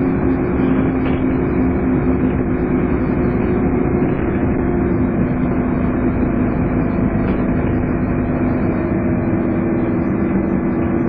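Scania N230UD double-decker bus running along, its engine giving the steady vacuum-cleaner-like hum that enthusiasts call "hoovering", over road and body noise. The hum holds at a fairly even pitch, with only slight drifts.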